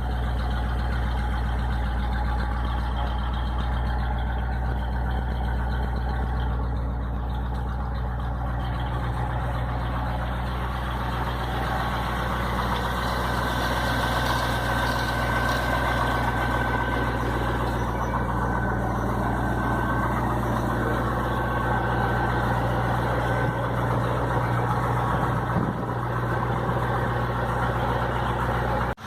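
Ford 390 V8 of a 1965 Thunderbird idling steadily with a deep, even exhaust note through newly fitted Thrush Turbo mufflers.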